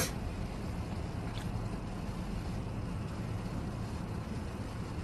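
Steady low rumble of a motor vehicle, with a sharp click at the start.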